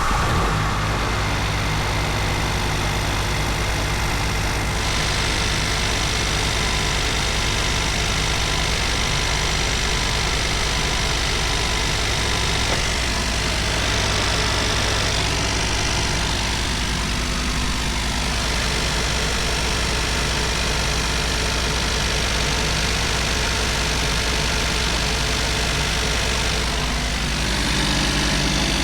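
Suzuki Jimny JB64's 660 cc turbocharged three-cylinder engine idling steadily just after starting, listened to for the connecting-rod noise known on early JB64s.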